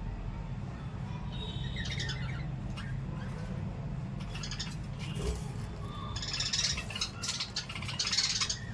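Small pet parrots, lovebirds and budgies, chirping in several short bursts of rapid high calls, busiest near the end, over a steady low hum.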